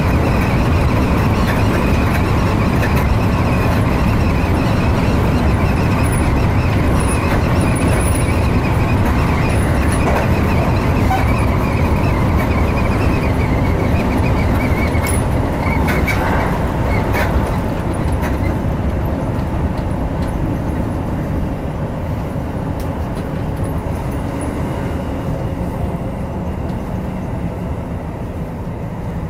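Seibu Shinjuku Line electric train running along the track, heard from the front of the train: a steady rumble of wheels on rail with a thin high whine that fades out about halfway through. The running noise grows slightly quieter and duller toward the end.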